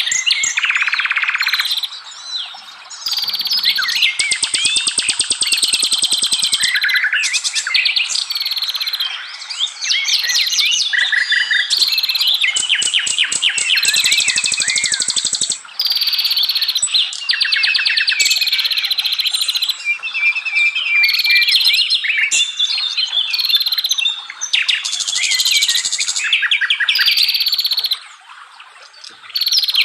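Songbirds singing continuously, a busy overlapping mix of whistled phrases, chirps and fast rattling trills, with brief lulls about two seconds in and near the end.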